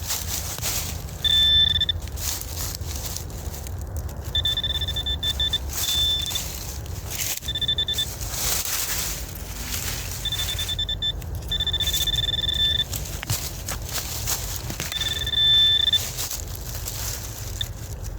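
Metal detector sounding its high-pitched target tone in about seven short beeps as the coil is swept back and forth over a target, with scattered crackling underneath.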